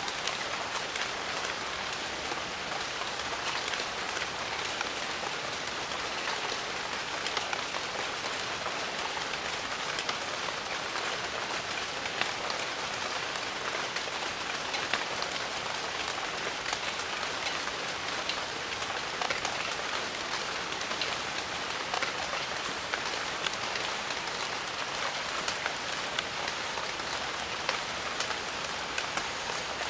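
Steady heavy rainfall on foliage, a dense even hiss with many distinct drop patters throughout.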